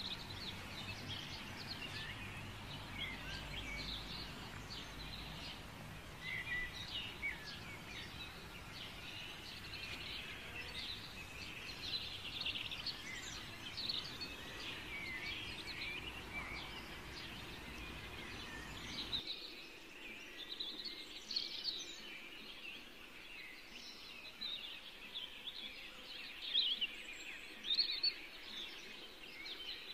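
Many small birds chirping and twittering, overlapping, over a low steady background hum that cuts off suddenly about two-thirds of the way through while the chirping goes on.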